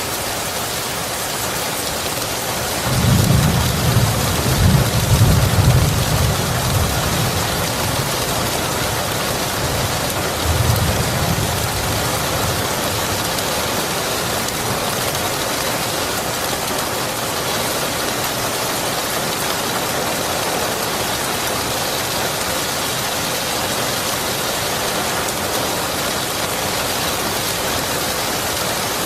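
Steady heavy rain, with a rumble of thunder about three seconds in that lasts several seconds and a shorter, weaker rumble about ten seconds in.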